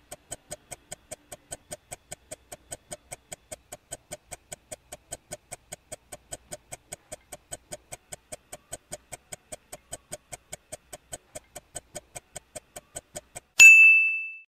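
Countdown timer sound effect: even clock-like ticks, about four to five a second, ending in a single bright ding that marks the reveal of the correct answer.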